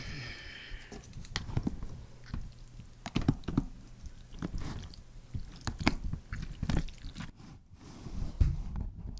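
Close-miked eating: irregular crisp crunches and chewing, as of biting into a breaded, deep-fried pork cutlet.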